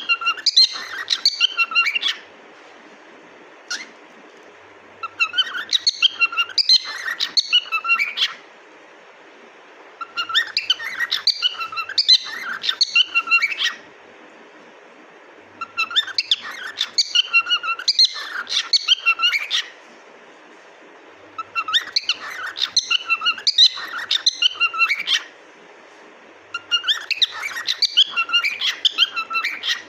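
Cockatiel chirping and whistling in six bouts of rapid, repeated calls, each about three seconds long, with short pauses between them.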